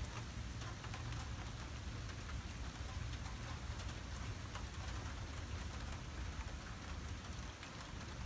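Steady rain falling during a thunderstorm, with many small drop ticks over an even hiss and a steady low rumble underneath.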